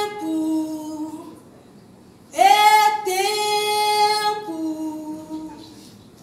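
A woman singing unaccompanied: two long, slow sung phrases, each a held note that steps down to a lower one, the second fading out near the end.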